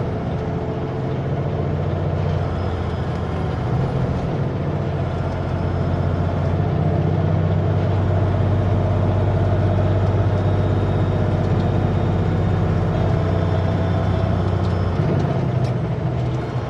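Kenworth W900L semi truck's diesel engine running, heard from inside the cab. Its note changes a few times and grows a little louder toward the middle as the truck speeds up after a hairpin.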